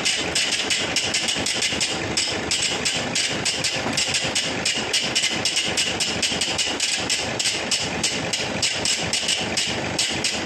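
Toyota Fortuner engine running with a loud, rapid, regular knocking clatter, about five or six knocks a second. The noise comes from the front of the engine and is traced to a failed alternator pulley.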